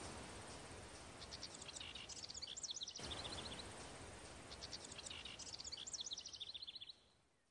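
Faint birdsong: two spells of quick, high-pitched chirping over a soft, steady outdoor hiss, cutting off near the end.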